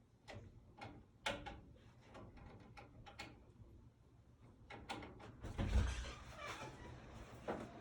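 Scattered clicks and knocks, then a denser clatter with rustling about five and a half seconds in: handling of tools or parts during work.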